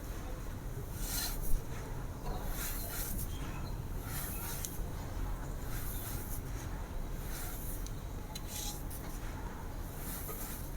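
A dry, crispy sand floor being crumbled: crisp crunches and crumbling about once a second, with one sharp snap about one and a half seconds in.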